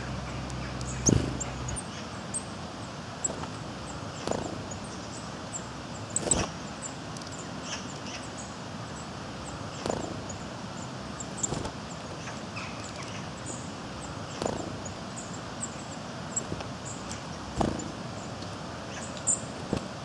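Coal tits landing on and leaving a wooden feeding board right by the microphone: a string of sharp, short thumps every couple of seconds, the loudest about a second in. Faint high call notes and a steady outdoor hiss sit underneath.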